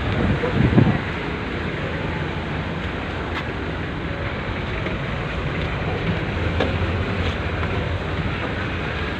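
Steady rumble and rushing noise of a ship under way, heard from inside the vessel, with a short louder bump about a second in.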